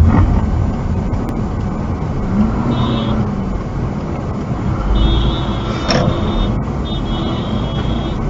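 Steady road and engine rumble of a vehicle in traffic, with brief high-pitched tones a few seconds in and again near the end, and one short sharp noise about six seconds in.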